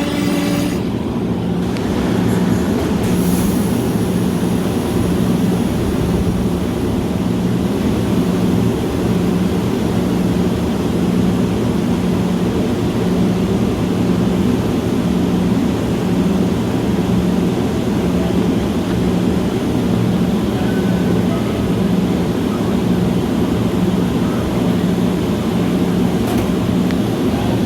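Metra commuter train running steadily: an even rumble with a constant low hum.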